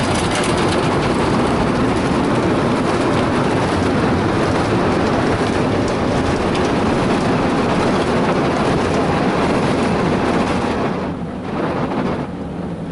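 Ryko Softgloss Maxx 5 automatic car wash scrubbing the back of an SUV with its brushes and water, heard from inside the vehicle: a loud, steady rush that drops away about eleven seconds in.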